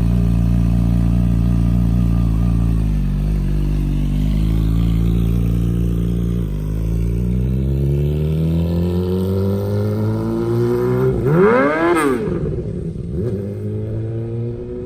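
Yamaha R6 inline-four sport bike with a full Yoshimura racing exhaust, running and pulling away. The pitch drops twice as it shifts, then climbs steadily under acceleration and swings sharply up and down a little after eleven seconds in, growing fainter near the end.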